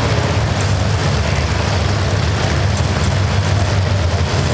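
Steady low hum under a loud, even background noise.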